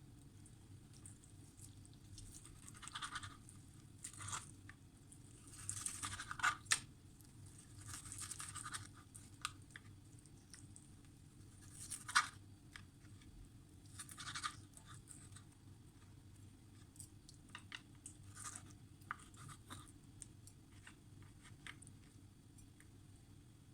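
Intermittent hand scraping and rubbing from kitchen food preparation, in short bursts a second or two long with a few sharp clicks, over a faint steady low hum.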